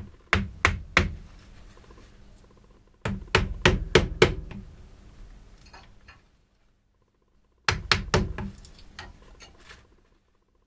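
Hammer blows in three bursts: three strikes, a pause, about six strikes, another pause, then a quicker run of many strikes.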